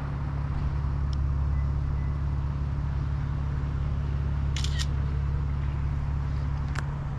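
A car engine idling with a steady low hum. Camera shutter clicks sound twice in quick succession past halfway, and once more near the end.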